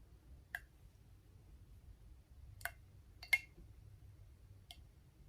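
A few separate sharp clicks and taps, about five, the loudest a little past the middle: pieces of Alka-Seltzer tablet dropped into a glass jar of oil and water.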